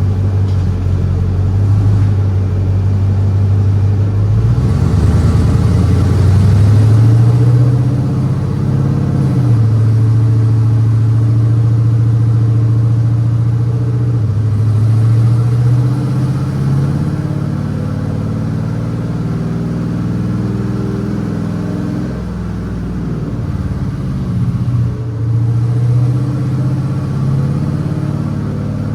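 5.3-litre V8 GMC Sierra pickup engine on headers running loud. Its pitch holds steady, then climbs and falls back several times as the truck accelerates and eases off.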